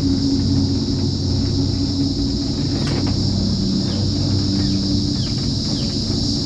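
Steady rumble and hum of a Skyrail cable-car gondola running along its cable, with a steady high-pitched drone over it. There is a single sharp click about three seconds in, then a few short falling chirps.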